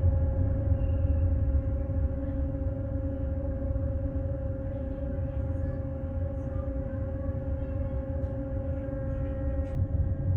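An engine running at an even speed: a steady low rumble with a constant hum over it.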